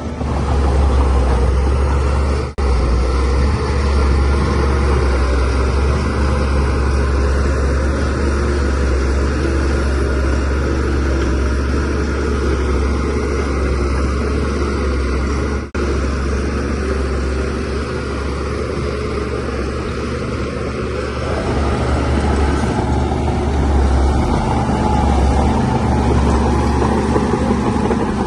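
DH17C3 bulldozer's diesel engine running steadily at work, a deep low rumble. It drops out briefly twice, about two and a half seconds in and again near the middle.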